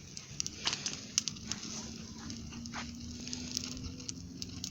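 Campfire burning, with irregular sharp crackles and pops from the wood over a faint steady hum.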